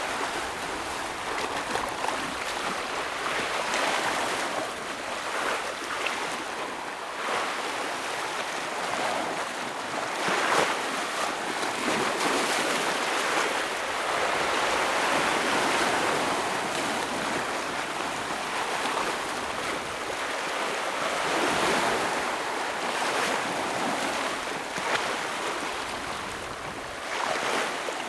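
Ocean waves breaking and washing against shoreline rocks, a continuous surf noise that swells and eases every few seconds, with sharper splashes about ten seconds in and again near the end.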